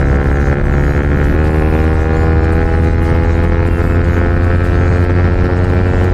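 Yamaha R15 V4's 155 cc single-cylinder engine running under load through an aftermarket Akrapovic full-system exhaust. The engine note drops once about a second in, then climbs slowly as the bike pulls in gear.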